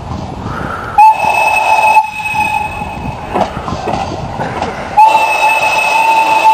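Ty2 steam locomotive's whistle sounding twice: a short blast about a second in, then a longer blast starting about five seconds in, each a steady single tone.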